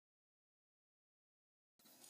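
Silence: a digital gap with no sound at all between scenes.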